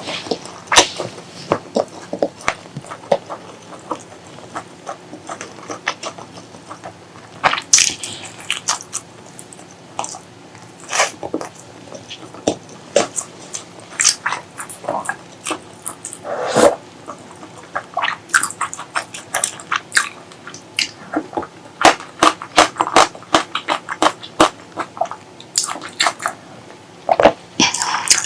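Close-miked eating: chewing with many irregular wet mouth clicks and smacks, and a longer wet sound about halfway through.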